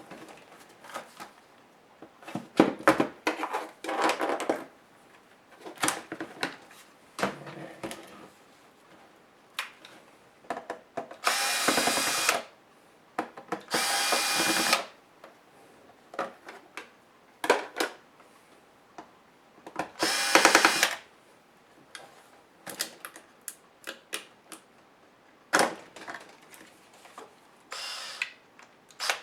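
Electric screwdriver whirring in three short runs of about a second each, backing out laptop case screws. Between the runs come scattered clicks and clatter of screws and plastic parts being handled.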